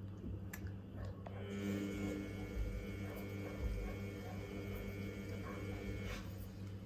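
Samsung WF1700WRW front-loading washing machine mid-programme: a steady motor whine starts about a second in and stops about six seconds in, over a constant electrical hum.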